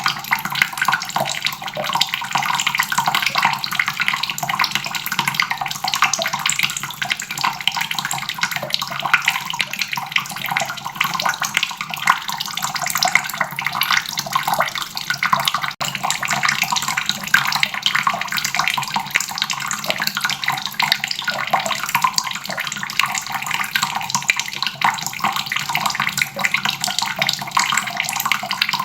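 Water tap running steadily, a continuous stream splashing into a basin.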